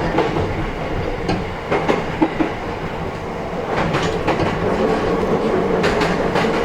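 Running noise inside the motor car of a JR East E131-1000 series electric train: a steady rumble, with the wheels clicking over rail joints in small groups of two or three knocks.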